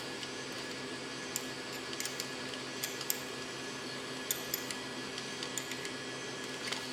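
Scattered light metallic clicks and clinks over a steady hum.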